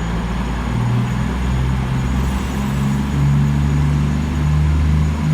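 CrossCountry diesel passenger train departing and accelerating away, its engines giving a loud, steady low drone whose pitch steps up as it gathers speed.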